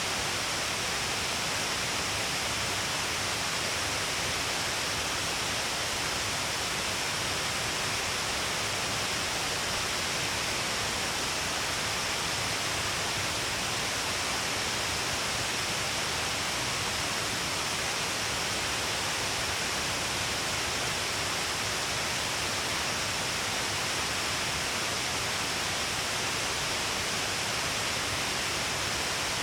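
Shiraito Falls, many streams of water pouring off a long cliff face, making a steady, even rush of falling water with no breaks.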